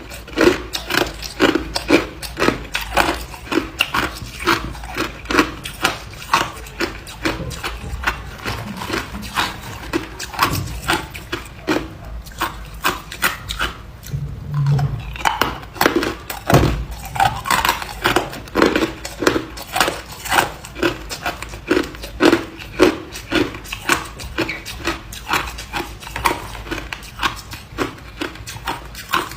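Ice being chewed and crunched between the teeth, a steady run of loud crunches at about two to three a second, with a lull of a few seconds midway.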